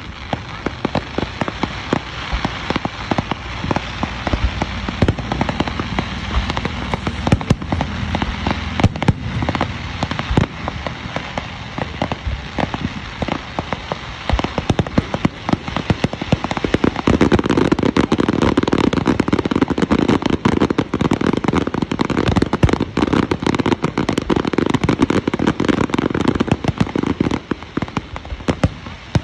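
Fireworks display: aerial shells bursting with sharp bangs and a dense run of crackling, which grows thicker and louder from about halfway through.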